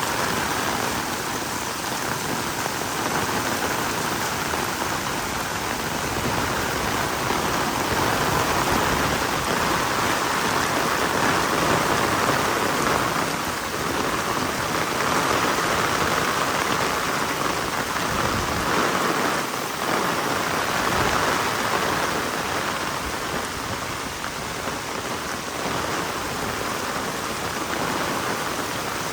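Heavy rain falling steadily: a dense, even hiss that swells and eases slightly.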